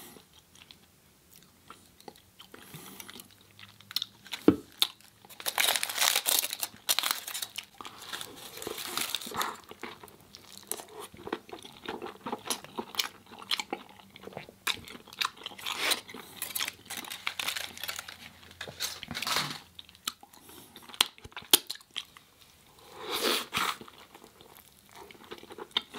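Close-up eating sounds: a person biting and chewing crunchy food, an irregular run of crunches and mouth clicks with short pauses between bites. The food is a vegan taco bowl and burrito.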